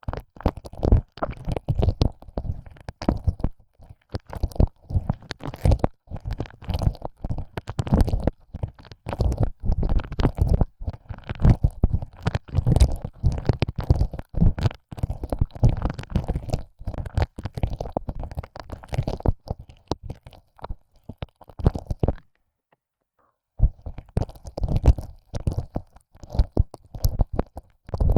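Tongue licking an ear, pushed in and out of the ear hole: rapid, irregular wet smacks and clicks, stopping for about a second and a half near the end.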